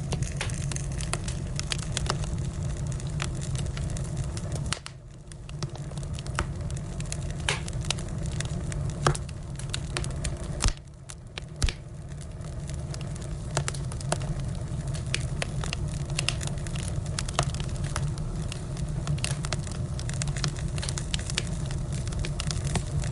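Firewood burning, with frequent sharp crackles and pops over a steady low rush, the loudest pops about nine and eleven seconds in. The sound drops away briefly twice, at about five and eleven seconds.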